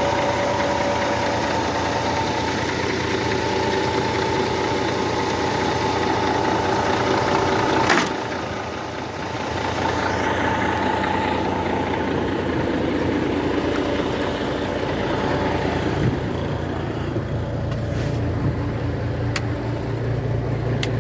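Diesel engine of a Scania G-Series concrete pump truck running steadily, with a sharp click about 8 seconds in and a deeper, stronger hum in the second half.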